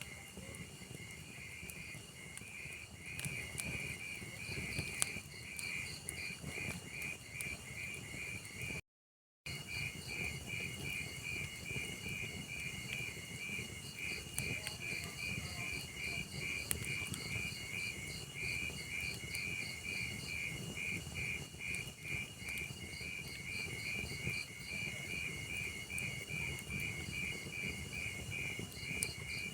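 A cricket chirping in an even, fast rhythm over the soft crackle of a log fire. The sound cuts out completely for about half a second roughly a third of the way through.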